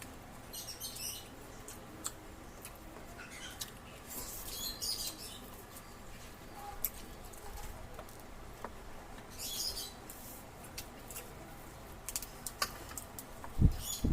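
Close-up eating sounds: short bursts of chewing and mouth smacking every few seconds, with scattered light clicks, and a louder low thump near the end.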